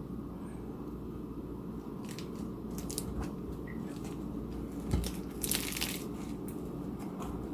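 Crisp lettuce crunching and crackling in short bursts as an overstuffed sandwich is squashed down by hand to close it, with one longer crunch past the middle.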